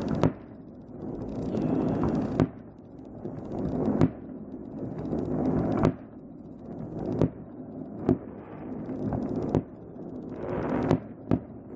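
Aerial fireworks shells bursting: about nine sharp bangs, a second or two apart, with a pair close together near the end and a steady background hiss between the reports.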